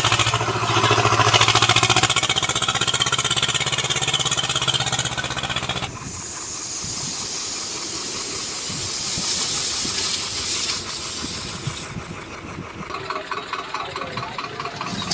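Swaraj 724 XM tractor's diesel engine running hard for about six seconds. It then gives way abruptly to a quieter, steady hiss with the engine fainter underneath.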